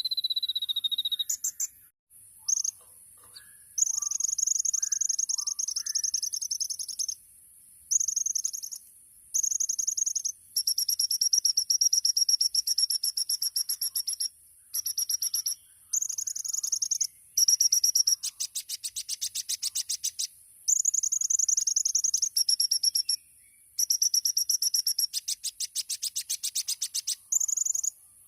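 Kolibri ninja sunbird singing: very high-pitched, rapid trilled phrases of one to three seconds each, separated by brief pauses, with faint lower chirps from another bird early on.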